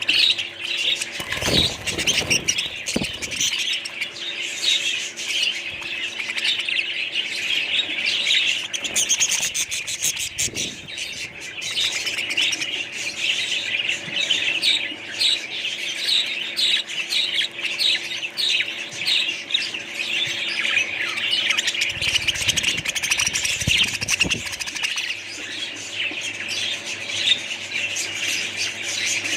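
Many small pet birds chirping at once in a dense, unbroken chatter, with a few low rumbles a couple of seconds in, around the middle and near the end.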